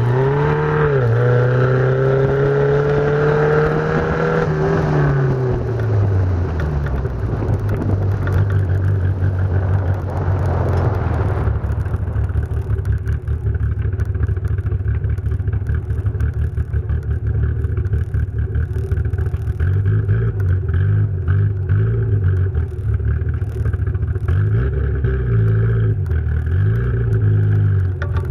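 Car engine running as the car drives slowly, heard from a camera mounted on the car's side. The engine note rises briefly at the start, drops at about five seconds and settles to a low steady drone with small rises and falls near the end. A rushing road and wind noise fades out at about eleven seconds.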